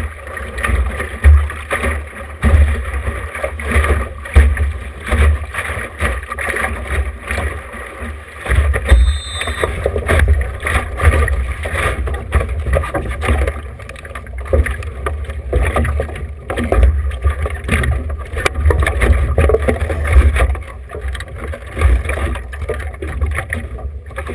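Wind buffeting the action camera's microphone in uneven gusts aboard a small sailboat under sail, with water rushing and splashing along the hull.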